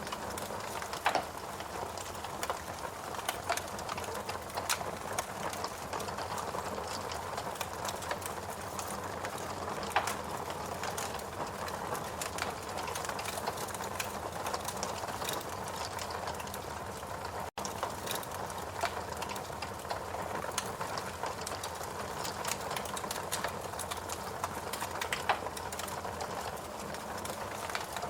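Wood fire crackling, with frequent small snaps and a few louder pops over a steady soft rush. The sound cuts out for an instant a little past halfway.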